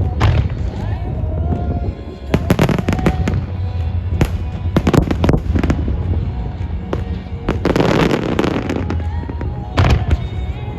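Large aerial firework shells (No. 8 shells) bursting in quick succession in a wide starmine barrage, single bangs and tight clusters with a dense run of bursts about eight seconds in, over music.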